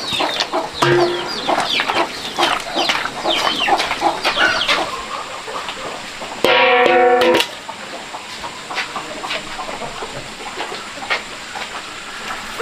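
Chickens clucking, with many short, high peeps, then a single loud, held call about halfway through.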